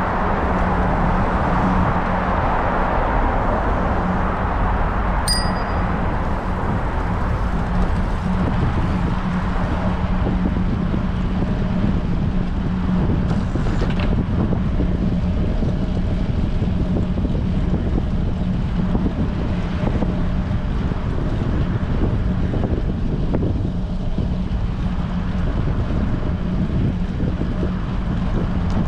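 Strong wind buffeting a bicycle-mounted action camera's microphone during a ride, a steady low rumble. A bicycle bell dings once about five seconds in.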